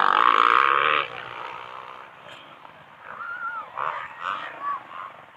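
Motocross motorcycle engine running loud, cutting off abruptly about a second in. A few short, arching high calls follow.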